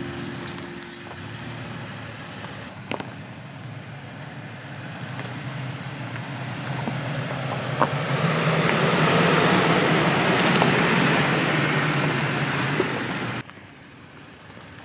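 Toyota Tacoma pickup driving over a rough dirt trail: a low engine hum under tyre and gravel noise that builds up over several seconds, with a few sharp knocks from stones, then stops abruptly about a second before the end.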